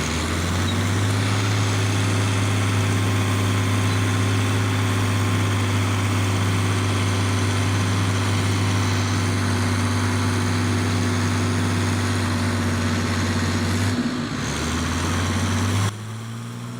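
Tractor diesel engine running at a steady speed with a deep, even hum. The sound shifts briefly about fourteen seconds in and drops to a quieter hum near the end.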